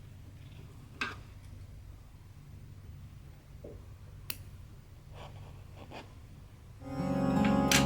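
A few soft, scattered clicks and taps from hands working a cross-stitch piece with needle and thread, over a steady low hum. Plucked-string background music comes in near the end.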